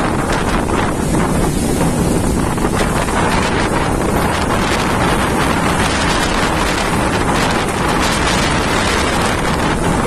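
Strong cyclone winds blowing hard, buffeting the microphone with a loud, steady rush.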